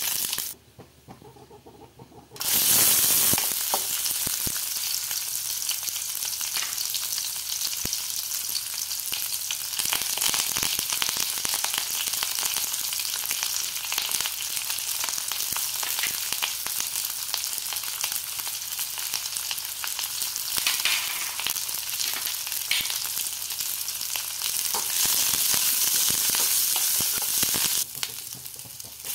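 Dried red chillies, shallots, curry leaves and whole spices sizzling in hot oil in a stainless steel pan: a dense, steady sizzle with many small pops. It starts suddenly about two seconds in and eases slightly near the end.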